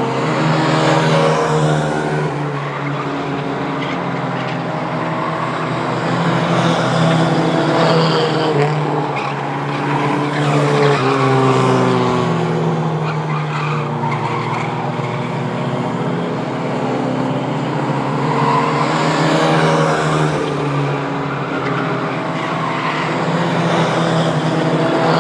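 A pack of Mighty Trucks race trucks running laps on a short oval track. Several engines rev up and back off through the turns, the sound swelling and fading as the trucks pass by.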